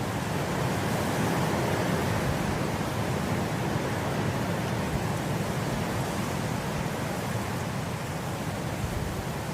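Wind blowing through grass: a steady rushing hiss that swells a little in the first seconds and then holds.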